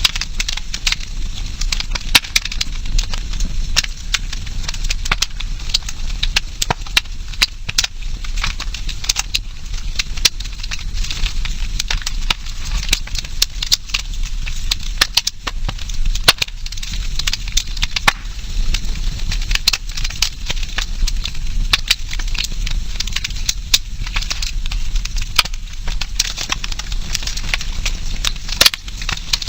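Wood campfire crackling, with frequent sharp pops and snaps over a steady hiss of burning.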